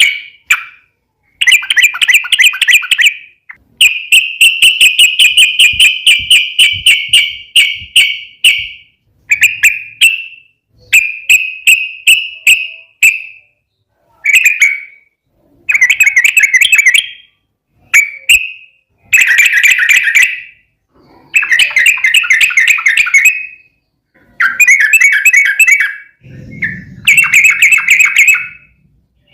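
Yellow-vented bulbul (trucukan) singing: a long series of bubbly, chattering phrases, each a quick run of notes around one pitch. Most phrases last a second or two with short pauses between them, and one runs for about five seconds.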